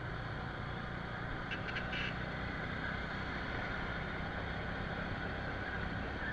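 Motorcycle running steadily in city traffic, engine and road noise heard from the rider's seat, with a few short high-pitched sounds about a second and a half in.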